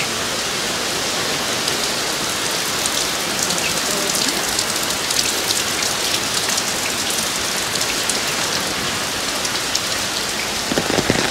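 Steady rain falling, with many individual drops ticking close by. A few short knocks come just before the end.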